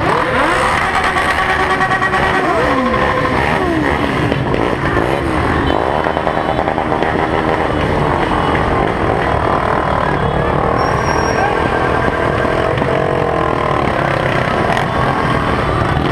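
Several motorcycle engines running and revving together, their pitches overlapping and repeatedly rising and falling.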